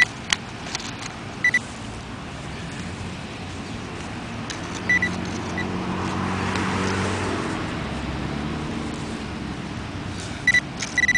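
A car passes on the road, its engine and tyre noise swelling to a peak about two-thirds of the way through and then fading. Short high electronic beeps from the metal-detecting gear sound about a second and a half in, again about five seconds in, and in a quick cluster near the end.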